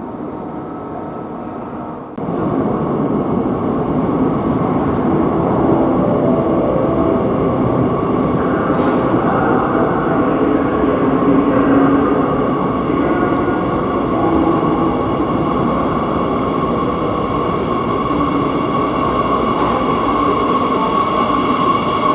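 Madrid Metro series 8000 train heard from inside the car: a steady mechanical hum with a held high tone. It steps up suddenly in level about two seconds in and stays louder.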